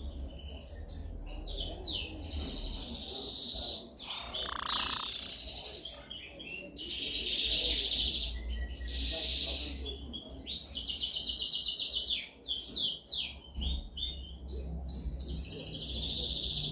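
Domestic canary singing a long song of fast trills and rolls, phrase after phrase of rapidly repeated notes, with one louder, harsher note about four and a half seconds in. A low hum runs underneath.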